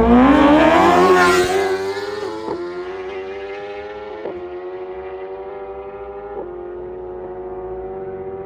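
Motorcycle engine revving up, then held at a steady high-pitched note.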